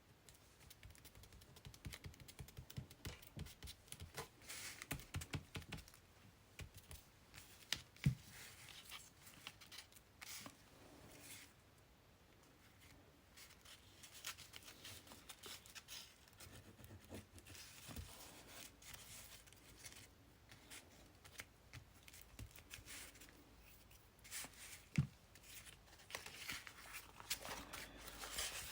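Paper and craft materials being handled on a table: faint rustling and scraping with scattered small taps and clicks, and two sharper knocks, one about eight seconds in and one a few seconds before the end.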